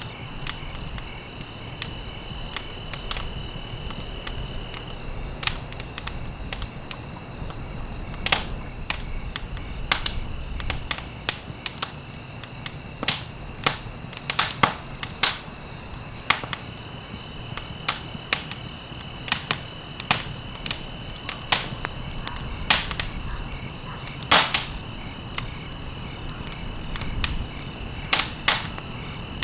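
Wood fire in a fireplace crackling, with irregular sharp pops and snaps, a few of them loud, over a low steady rumble of the burning. A steady high-pitched trill runs in the background and drops out for a while partway through.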